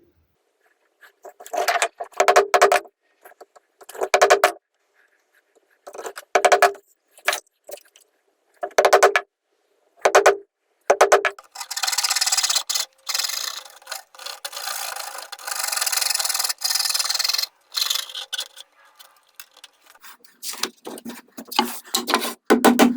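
A hand tool working wood in rasping strokes: short scraping bursts in quick groups, then about six seconds of continuous scraping, then more strokes near the end.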